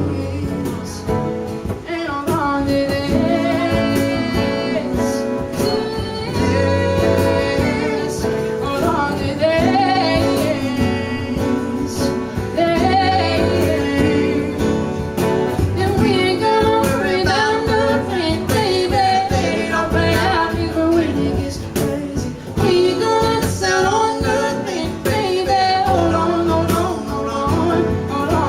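A live acoustic country song: sung vocals over strummed acoustic guitar, with a cajon keeping a steady beat.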